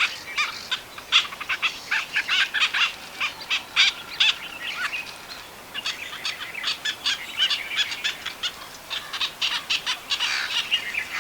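Little cormorant calls: a dense run of many short, sharp notes in quick succession, overlapping as if from several birds.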